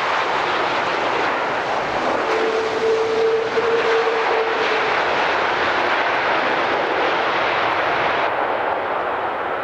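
Airbus A330 airliner with two Rolls-Royce Trent 772B jet engines passing on its landing approach: a loud, steady jet noise, with a steady whine that sounds for a couple of seconds about two seconds in.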